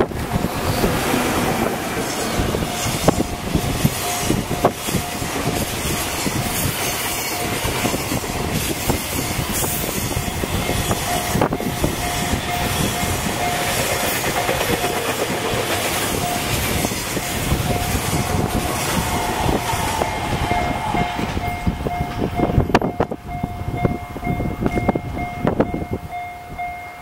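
Freight wagons (container flats, then tank wagons) rolling past behind an EF64 electric locomotive: continuous wheel-on-rail noise with many sharp clicks of wheels over the rail joints, dropping away near the end as the last wagons pass. Strong wind buffets the microphone, and a steady high tone runs underneath.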